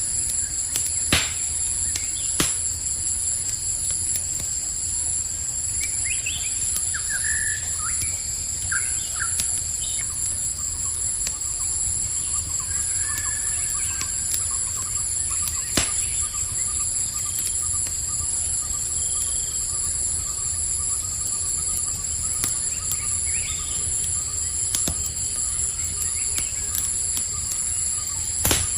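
Campfire crackling with a few sharp pops over a low steady rumble, under constant high-pitched cricket chirring; a few short bird chirps come in about six to ten seconds in.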